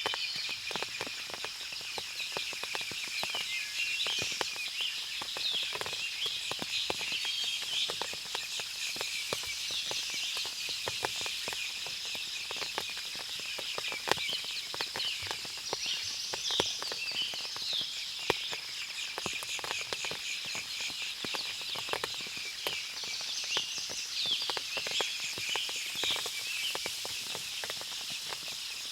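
Forest ambience after heavy rain: a steady high insect drone, birds chirping, and many short, scattered drips and ticks throughout.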